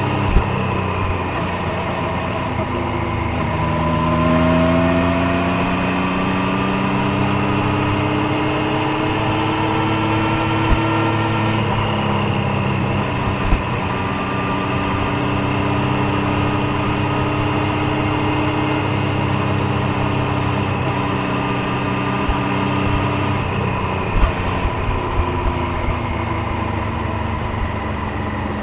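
Triumph Street Triple 765 Moto2 Edition's inline three-cylinder engine and exhaust running on the road. The revs climb steadily for several seconds, fall back about twelve seconds in, hold steady, then ease off again shortly before the end, over a low rumble of wind.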